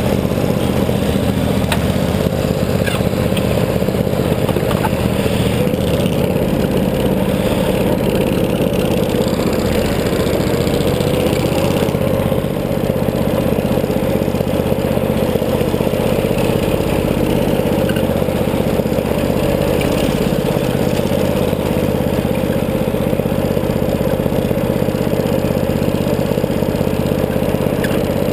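Riding lawn tractor's small engine running at a steady speed.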